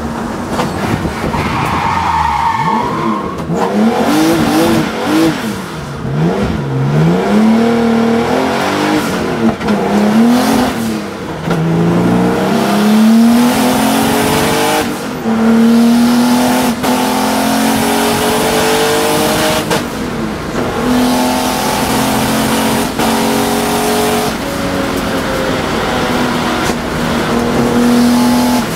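Turbocharged E46 BMW M3 race car engine at speed on track, heard from inside the stripped cabin: the pitch climbs and drops over and over as the car is driven through gears and corners, with several brief dips in the sound.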